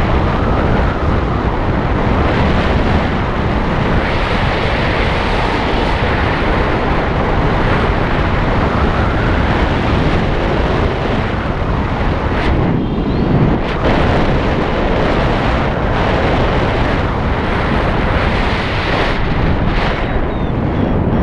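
Loud, steady wind rushing over the microphone of a moving motorcycle, with a vehicle hum underneath.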